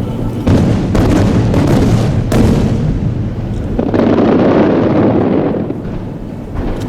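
Aerial firework shells bursting in quick succession, several sharp booms, then a dense run of overlapping bursts that peaks about four seconds in and fades, with one more boom near the end.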